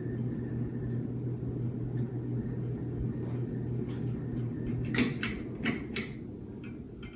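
Vintage Sears ceiling fan running on high, with a steady low motor hum and the rush of the blades. About five seconds in, four quick sharp clicks.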